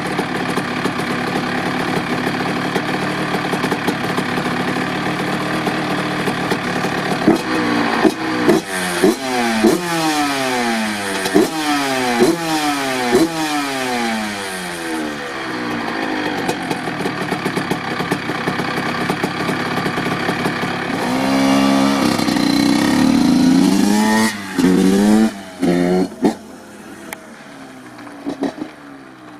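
2007 Honda CR85's 85cc single-cylinder two-stroke engine revving up and down over and over, its pitch repeatedly rising and falling. Sharp throttle blips follow later, and then it drops back to a lower, quieter running near the end.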